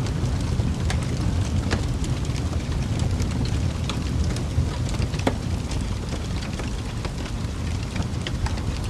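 Wood fire burning in a fireplace: a steady low rumble of flame with irregular sharp crackles and pops, one louder pop about five seconds in.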